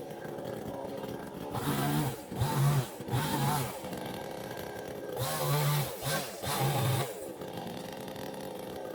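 Chainsaw idling, then revved in short bursts: three quick ones about two seconds in and three more about five seconds in, dropping back to idle between them.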